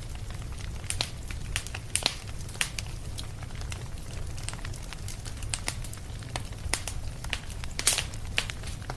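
Fireplace fire crackling, with irregular sharp pops and snaps, one louder than the rest near the end, over a steady low rumble.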